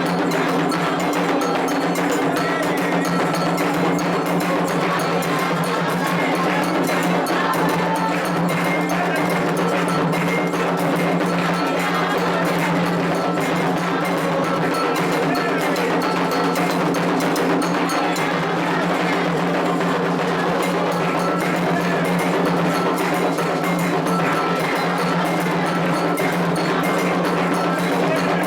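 Candomblé ritual drumming: hand drums played continuously with a struck metal bell sounding a short repeating pattern over them.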